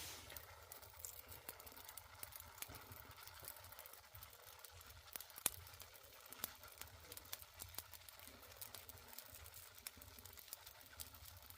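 Wood fire in an agungi furnace crackling, with scattered faint pops and one sharper pop about five and a half seconds in.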